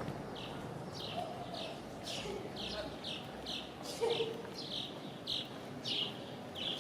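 A bird chirping over and over: short, high chirps that slide downward, about two a second.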